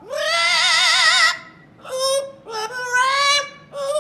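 Pet parrot singing: a long note that wavers quickly up and down for over a second, then a few shorter, steadier held notes.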